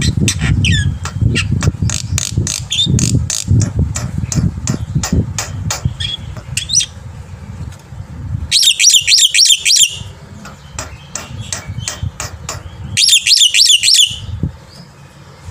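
Black-winged myna (jalak putih) singing: a run of sharp clicks and short call notes over a low rumble, then two loud bursts of rapid, harsh chattering, the first about halfway through and the second near the end.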